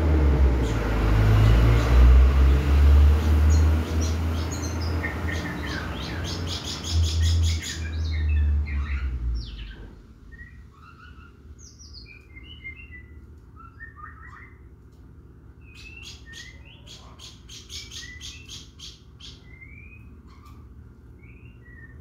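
A loud low rumble fills the first half and fades out about ten seconds in; then a small caged bird calls with short high chirps and quick rattling trills.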